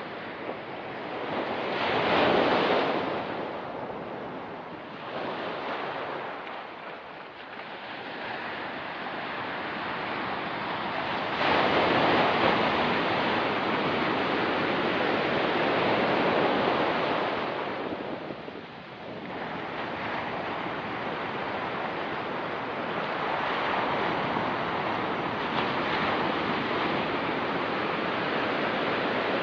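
Ocean surf washing onto a rocky shore, rising and falling in long surges: one swell about two seconds in, a long loud wash from about eleven to seventeen seconds, then a short lull before it builds again.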